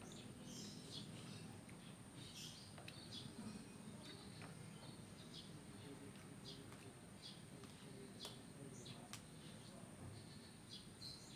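Faint, short, high-pitched bird chirps, scattered irregularly over a quiet background.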